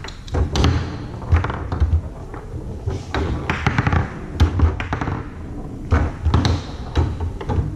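Foosball table in fast play: a run of sharp knocks, clacks and thumps at uneven intervals as the ball is struck by the figures and rattles off the walls, and the rods slam in their bearings.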